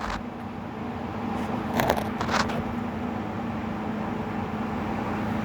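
A steady mechanical hum, with a few brief clicks and rattles about two seconds in.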